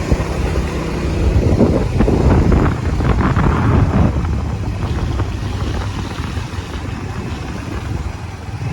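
Motorcycle running while being ridden, with wind buffeting the microphone. It is loudest between about one and four seconds in.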